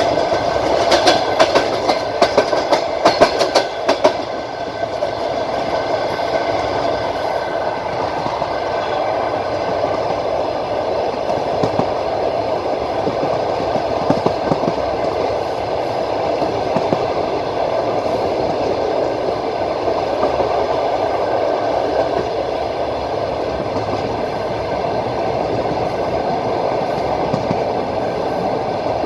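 Passenger train running along the line, heard from the carriage window: the wheels clack rapidly over rail joints in the first few seconds, then the ride settles into a steady rumble with an occasional click.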